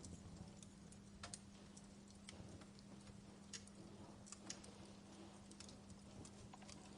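Wood fire crackling faintly in a fireplace, with irregular sharp pops and snaps over a steady low hum.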